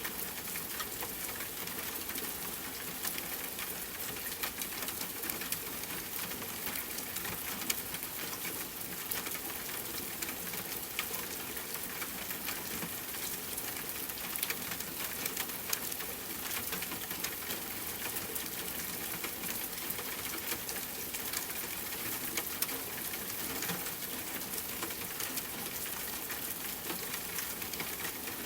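Steady rain falling on a tent, mixed with a campfire crackling: an even hiss sprinkled with many small, sharp pops and ticks.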